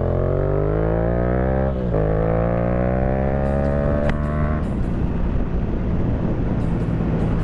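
2016 Yamaha FZ-07's parallel-twin engine with a Yoshimura R77 exhaust accelerating through the gears while riding: the note climbs, drops at an upshift about 2 s in, climbs again to about 4 s, then settles into a steady cruise under wind rush.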